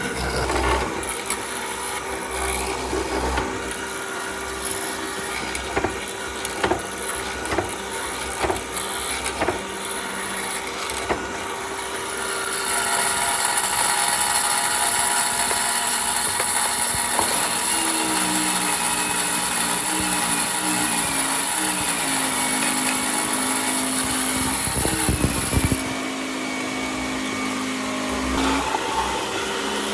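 Woodworking power tool on wood: scattered knocks and handling clicks, then from about twelve seconds in a louder, steady motor run with a high whine whose pitch shifts as the load changes, easing off near the end.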